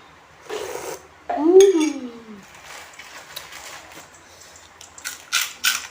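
Eating sounds: a spoon clinking and scraping against a plate, with a short voice sound falling in pitch about a second and a half in, the loudest thing heard. A few quick noisy clatters come near the end.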